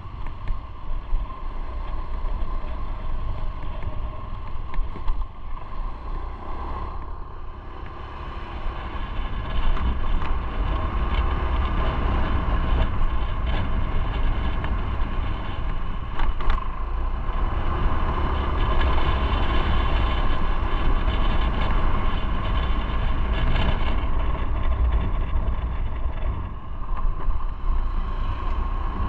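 Motorcycle on the move: engine running under a strong rush of wind over the microphone. It grows louder about a third of the way in and eases off a little near the end.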